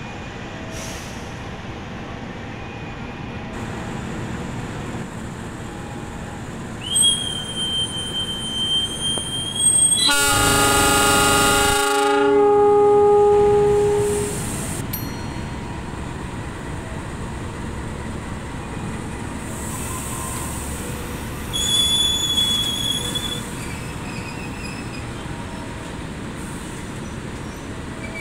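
Passenger train running along the track with a steady rumble. A high, steady wheel squeal starts about 7 seconds in, then the locomotive horn sounds once, loudly, for about two seconds. A second short squeal comes near 22 seconds.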